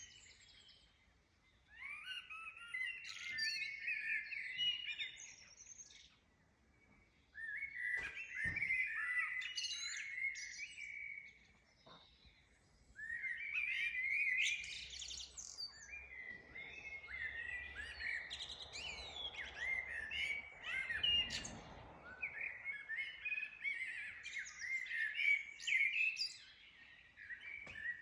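Songbirds singing in the early-morning dawn chorus: phrases of quick, high chirping notes a few seconds long, separated by short pauses at first, then nearly unbroken from about halfway through.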